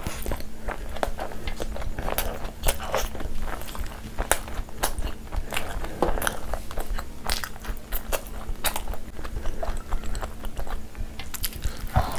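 Close-miked biting and chewing of a chicken shawarma wrap: many short, sharp mouth clicks and bite sounds at irregular intervals.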